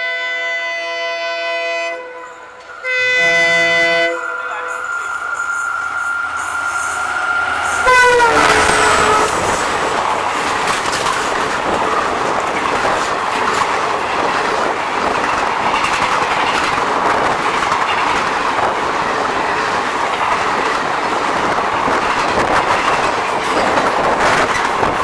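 Diesel locomotive horn sounding two long blasts, the second running on as a held note that drops in pitch as the WDP4D engine passes at speed about eight seconds in. Then a loud steady rush and wheel clatter as the passenger coaches run through.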